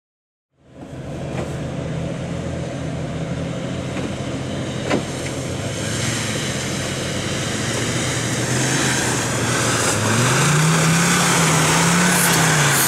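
Engine of a Land Rover Defender off-roader running as it drives up a muddy track, growing louder as it comes closer. Near the end the engine revs up and eases off, its pitch rising and falling.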